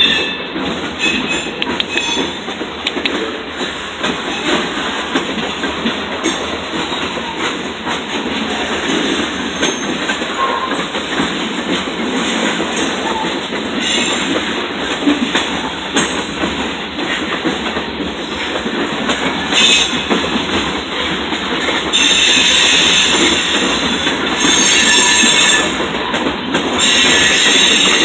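Freight train cars rolling past, steel wheels clicking over the rail joints, with a high-pitched wheel squeal that comes and goes and is loudest in stretches near the end.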